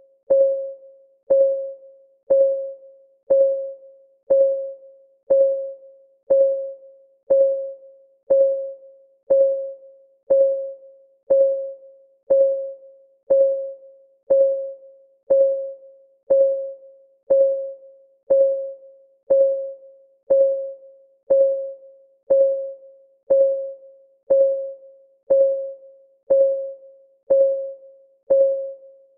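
Countdown timer's clock-ticking sound: one short pitched tick every second, each dying away within about half a second, perfectly steady.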